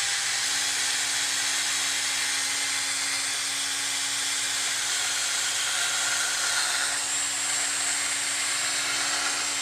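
Electric drill running at a steady speed, spinning an engine valve against 3000-grit sandpaper: a constant whine over a hiss of paper on metal.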